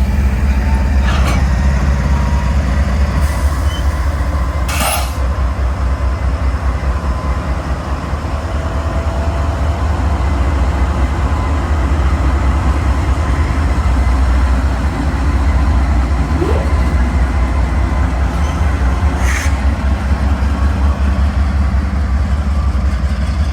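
Freight train rolling past: a steady heavy low rumble, with a few brief sharp metallic sounds about a second in, around five seconds in and near the end.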